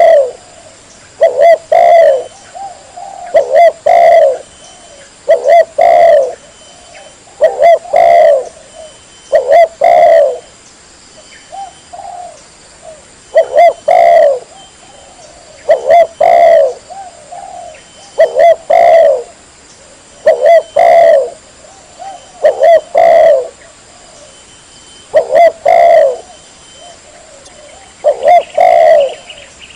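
Spotted dove (tekukur) cooing loudly and clearly, repeating its short phrase of a few quick coos about every two seconds.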